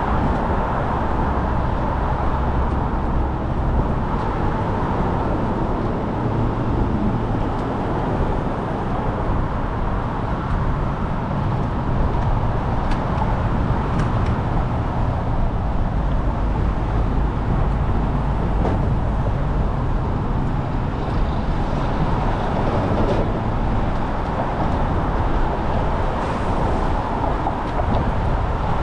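Steady traffic and road noise heard from a bicycle riding among cars, with no clear single event standing out.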